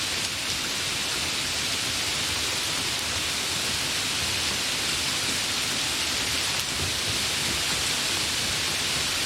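Steady rain falling, an even hiss with faint scattered patter of drops.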